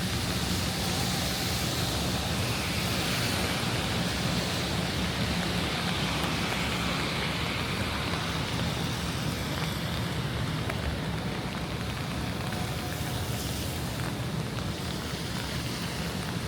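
Steady rain falling on a city street, a continuous hiss over a low traffic rumble. The hiss eases a little after about ten seconds.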